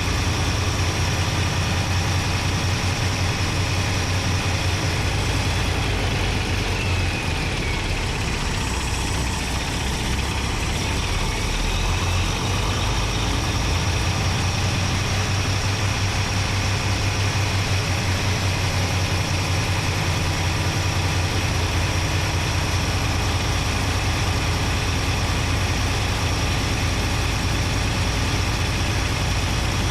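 Paccar MX-13 12.9-litre inline-six diesel engine in a Peterbilt 389 running steadily under way, heard close up from inside the engine bay. A faint whistle glides down and back up partway through.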